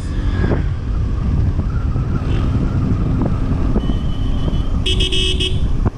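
Steady wind rush and engine noise of a motorcycle on the move, with a short horn honk about five seconds in.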